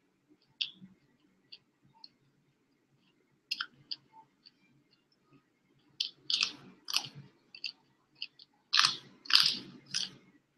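A person chewing food close to the microphone: scattered small wet clicks at first, then louder bursts of crunching about six seconds in and again near nine seconds.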